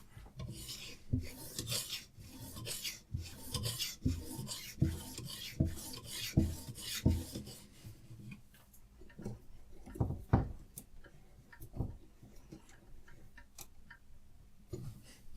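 Diamond sharpening stone on a Hapstone RS guided sharpener being drawn along a knife's edge in repeated rasping strokes, about one a second, each ending in a light knock. The strokes grow softer in the second half, with a couple of sharper knocks.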